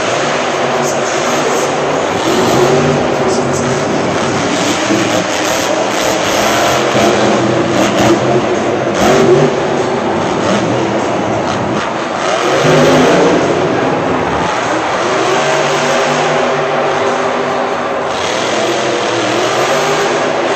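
Monster truck engine running loud, revving up with a rising pitch about twelve seconds in.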